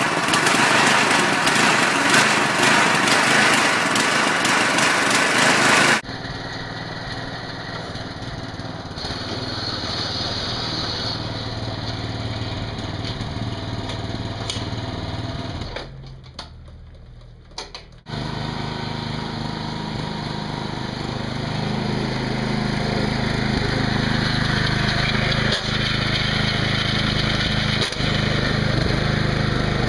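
The small replacement engine of a Bolens garden tractor running. The sound changes abruptly about six seconds in and drops briefly past the middle, then settles into a steady hum.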